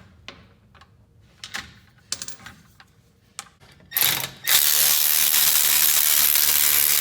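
A few light metallic clicks, then a power tool runs loud and steady for about three and a half seconds, loosening the nut of an exhaust V-band clamp.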